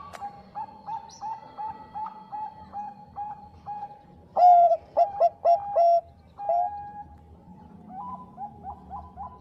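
Zebra doves (Bangkok-type perkutut) cooing in runs of short, clear notes at about three a second. About halfway through comes a louder phrase of falling notes, and a fresh run of rising-and-falling notes starts near the end.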